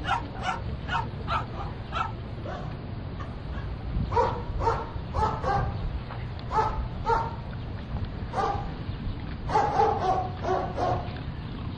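A dog barking repeatedly in short, high yips, coming in irregular clusters of two or three, over a steady low rumble.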